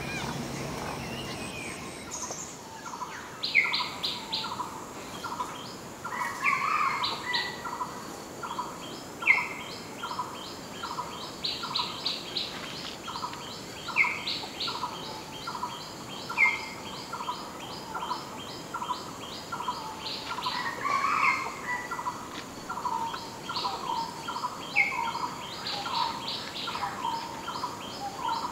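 Several birds calling: one repeats a short note steadily, a little more than once a second, while others give quick runs of high notes and, every few seconds, a louder downward-slurred call.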